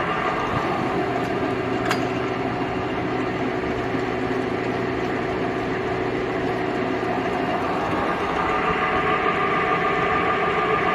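Jet GH 1440ZX geared-head lathe running under power, its spindle gearbox giving a steady mechanical whine with a single click about two seconds in. It grows a little louder over the last few seconds.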